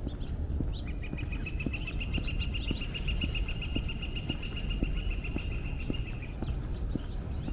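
A songbird sings one long, even, rapid trill starting about a second in and lasting some five seconds, over steady footsteps on pavement and a low outdoor rumble.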